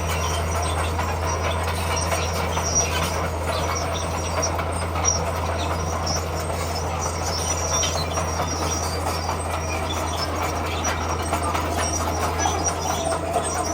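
Crawler bulldozer working, its diesel engine running with a steady low drone under repeated squeaks and clanks from its steel tracks.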